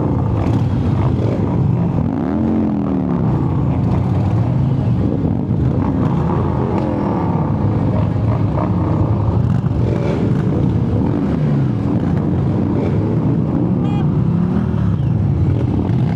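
Harley-Davidson V-twin motorcycle engine running under way, its pitch rising and falling every few seconds with the throttle, over steady wind noise on the microphone.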